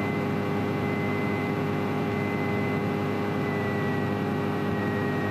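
Piston engine of a single-engine Grumman light aircraft running steadily at low taxi power, a constant drone with a faint high whine, heard inside the cabin.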